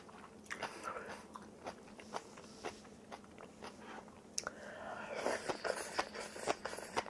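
Close-miked chewing of food, with many short crunches and wet mouth clicks that become denser and louder about five seconds in.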